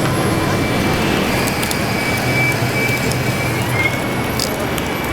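Steady high whine of a large-scale RC construction model's electric drive or hydraulic pump, over the constant din of a busy hall.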